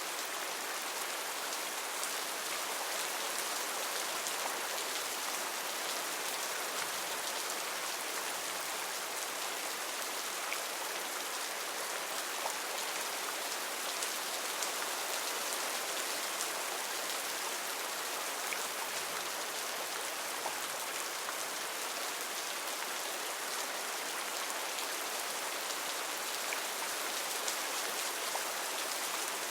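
Heavy rain falling steadily on rainforest foliage: a dense, even hiss with scattered drops pattering close by.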